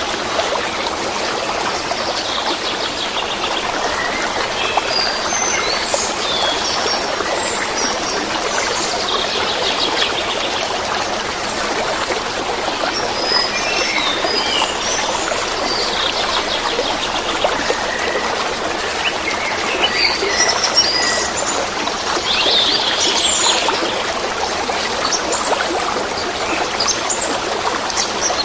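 Steady babbling of flowing water, with small birds chirping and calling over it again and again.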